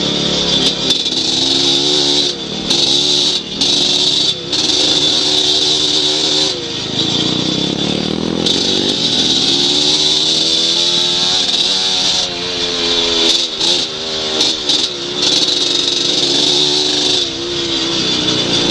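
Off-road motorcycle or ATV engine being ridden on a trail, its pitch rising and falling as the throttle is worked, with several brief drops where the throttle is let off.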